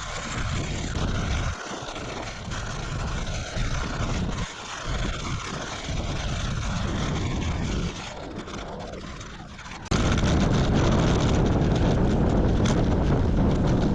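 Strong wind rushing and buffeting over the microphone while cycling into a headwind. It gusts unevenly, then jumps suddenly louder and heavier about ten seconds in.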